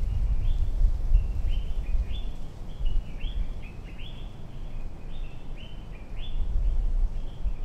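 Birds chirping, a quick string of short falling notes, a few a second, over a low rumble.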